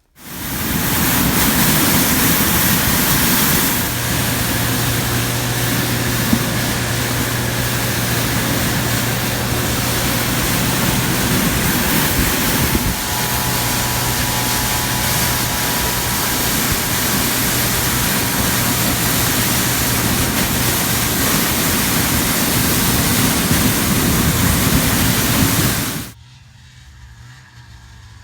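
Ski-Doo Formula Plus two-stroke snowmobile running at a steady speed under heavy wind rush on the microphone, its engine a steady hum beneath the rushing noise. The sound cuts off abruptly near the end.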